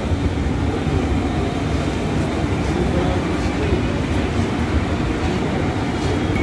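Indian Railways passenger train of LHB coaches rolling steadily past at moderate speed, its wheels and bogies making a continuous low rumble, with a few faint clicks as the wheels cross rail joints.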